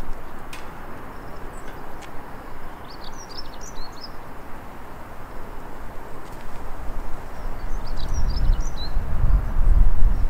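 A small bird chirping in two short bursts about five seconds apart, over steady outdoor background noise. A low rumble builds near the end.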